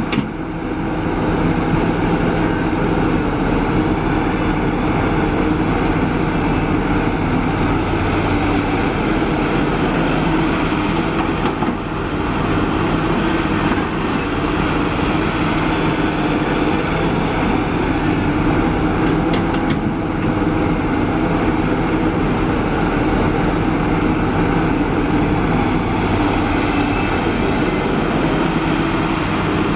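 Diesel engine of a Kobelco SK350 excavator running steadily at working speed, with brief dips in loudness just after the start and about 12 seconds in.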